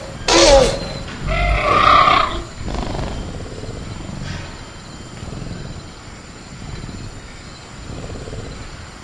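Sound-effect velociraptor vocalising: a loud screeching call that falls in pitch near the start, then a growl about a second and a half long. After that only a quieter jungle ambience with a steady high cricket tone.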